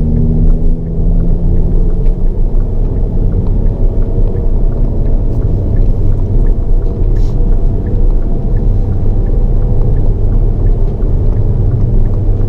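Hyundai Avante N's turbocharged 2.0-litre four-cylinder engine, with road noise, heard inside the cabin as a loud, steady low drone whose pitch shifts slightly as the car drives.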